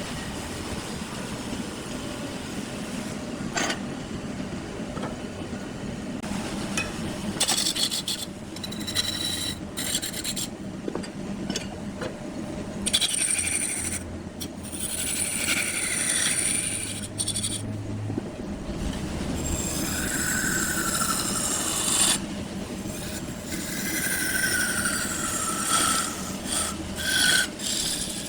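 Wood being cut or sanded on a spinning wood lathe: a noisy scraping that comes in stretches and stops briefly between passes, over a faint steady hum.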